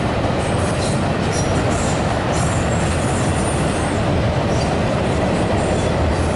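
Freight train of double-stack container cars rolling across a steel railway bridge: a steady, loud rumble of wheels on rail, with faint high wheel squeaks now and then.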